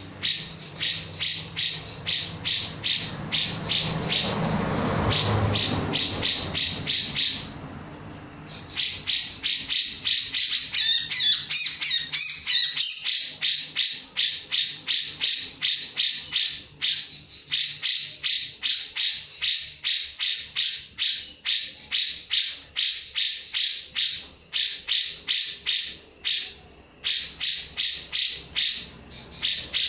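Grey-cheeked bulbul (cucak jenggot) singing in rapid, evenly repeated sharp notes, about three a second, with a short pause and a brief warbling run partway through.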